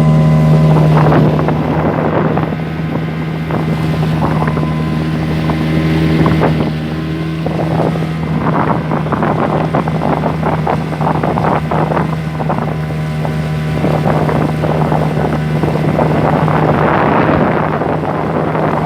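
Hangkai 6 outboard motor, still in its break-in hours, running steadily at speed with an even drone, with water splashing against the hull and wind on the microphone.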